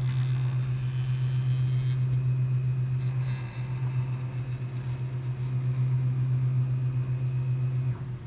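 Closed-loop stepper motors driving a CNC plasma table's gantry along the X axis at a feed of 50 inches a minute. It is a steady, fluttering hum that cuts off about eight seconds in as the move ends.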